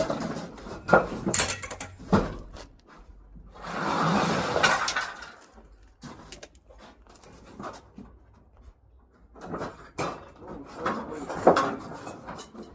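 Irregular knocks, clicks and clatter of hard objects being handled, with a longer noisy rustle about four seconds in.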